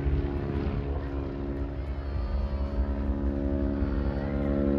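Propeller airplane engine droning steadily as it flies by. It fades slightly partway through and grows louder again near the end.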